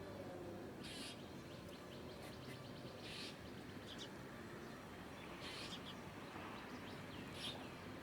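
Small birds chirping: short, high single chirps every second or two over a steady low background hum.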